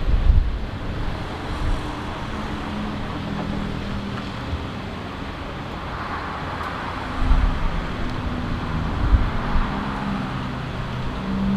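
Jet airliner engines running steadily, with gusts of wind buffeting the microphone about a second in, again around seven seconds, and near nine seconds.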